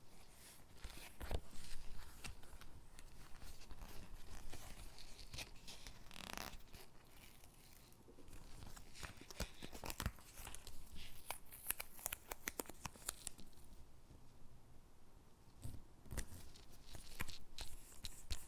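Stickers being peeled off their backing sheet and pressed onto paper gingerbread cutouts: short tearing peels, paper rustling and scattered small taps and clicks. The peels cluster about eleven to thirteen seconds in.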